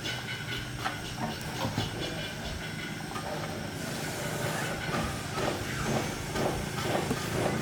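Restored 8 hp four-stroke diesel engine running steadily, with a repeated knocking and a hiss over its low drone.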